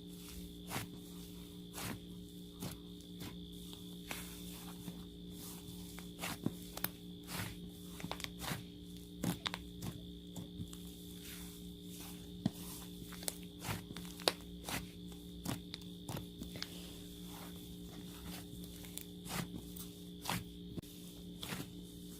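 Irregular light clicks and taps, one to three a second, over a steady electrical hum.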